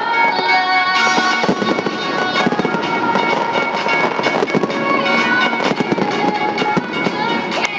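Fireworks bursting and crackling in quick succession over loud music played through a stadium sound system.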